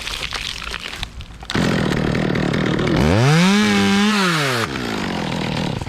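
Chainsaw running, then revved up to full throttle about halfway through: a rising whine that holds for a second or so, then falls away and drops back to a lower sound.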